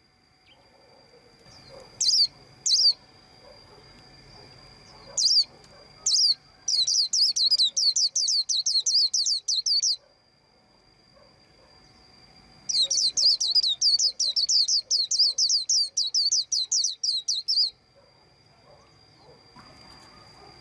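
A white-eye chirping in quick runs of short, high, downward-sweeping notes, about ten a second. A few brief bursts come first, then two long runs of several seconds each. A faint steady high whine sits underneath.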